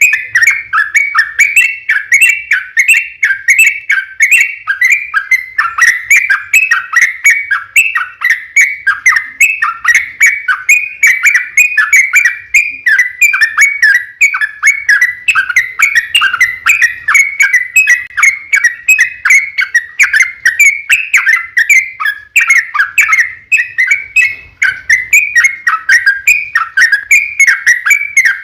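Yellow-vented bulbul (trucukan) singing a long unbroken run of quick chattering notes, several a second. This is a lure song, played to get other bulbuls to answer.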